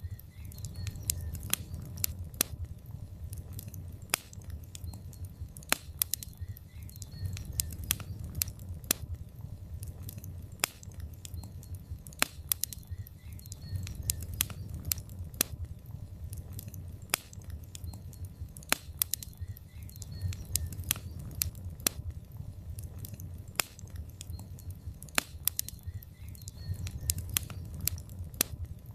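Log fire crackling in a fireplace: many irregular sharp pops and snaps, several a second, over a steady low rumble of the flames.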